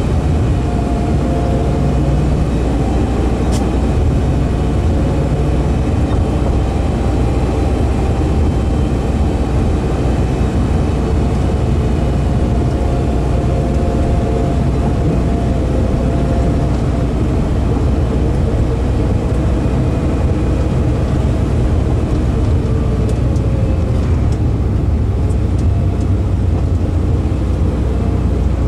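Lamborghini Gallardo's V10 engine running at steady revs, heard from inside the cabin as a constant low drone.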